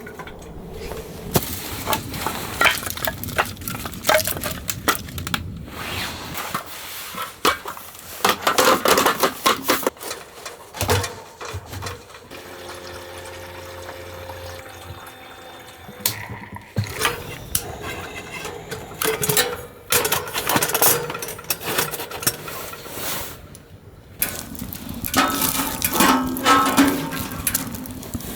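Handling noises: repeated knocks and clatters of objects being moved, with a stretch of pouring or running liquid.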